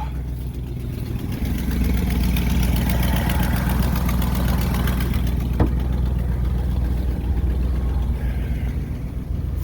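Old Ford F-250 pickup engine idling steadily after a cold start, its sound growing a little louder about a second and a half in. A single short click about five and a half seconds in.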